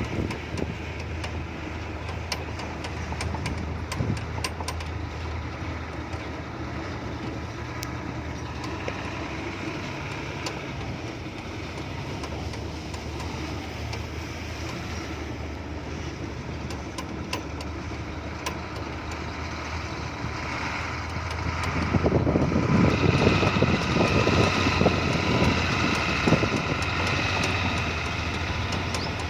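Diesel engine of a heavily loaded Hino F18 ten-wheel truck running steadily at low speed. About two-thirds of the way through it grows louder and fuller as the engine works harder.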